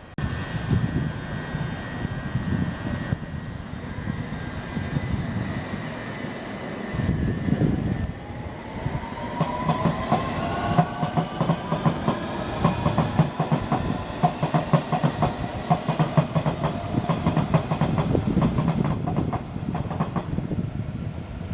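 Train running on the rails, with a whine rising in pitch from about nine seconds in and rapid clicking of wheels over rail joints.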